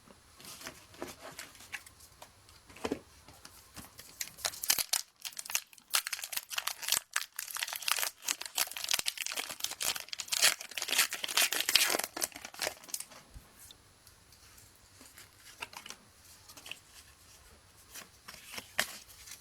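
Foil wrapper of a Pokémon TCG booster pack being torn open and crinkled, the rustling busiest through the middle. Near the end only faint, scattered handling sounds.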